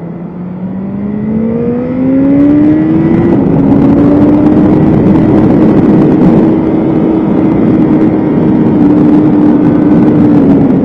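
BMW S1000RR inline-four sport bike engine under hard acceleration. The note climbs for about three seconds, dips slightly once, then holds high and steady, and falls off near the end as the throttle closes.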